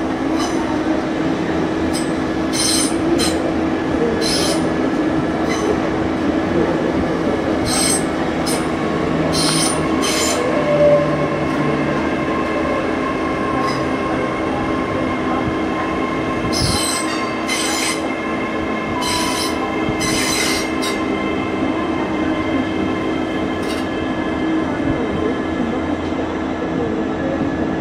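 Great Western Railway Class 800-series train running past with a steady hum and repeated short, high-pitched wheel squeals that come and go through most of the pass.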